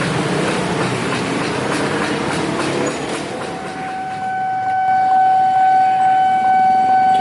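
A train passing at speed, its wheels rushing and clattering on the rails. About three and a half seconds in, a steady single-pitched tone starts and grows louder and holds.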